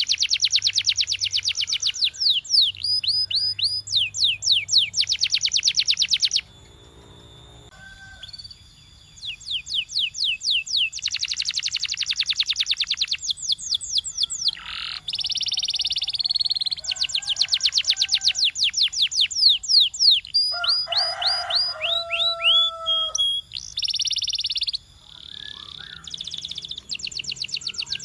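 Canary singing: fast rolling trills of high, downward-sweeping notes in phrases of one to three seconds, with short breaks between them and a quieter pause a little before the middle.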